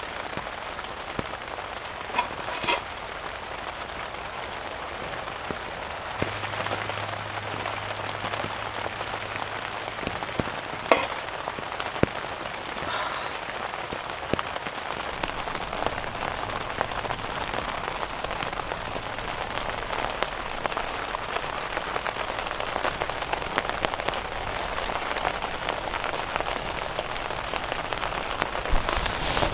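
Steady rain pattering, with a few sharp knocks scattered through it.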